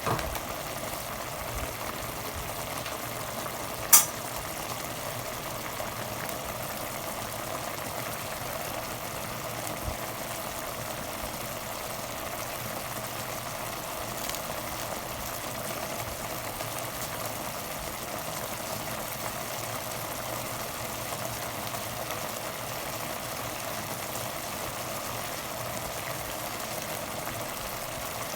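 Chicken adobo simmering and sizzling in a pot, a steady bubbling hiss, as the sauce reduces and the chicken gives off its own fat. A single sharp clack about four seconds in.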